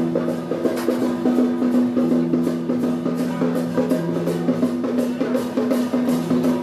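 Festival procession music: drums and cymbals struck in a quick steady beat over held low notes.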